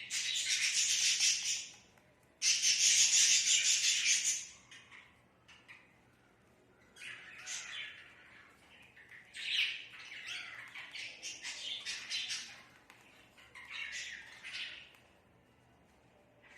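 Budgerigar calls: two long, harsh squawks in the first four seconds, then a run of quieter, broken chirping chatter from about seven seconds in until near the end.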